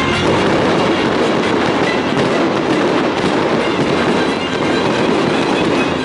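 Fireworks crackling in a dense, continuous stream, with no single bang standing out.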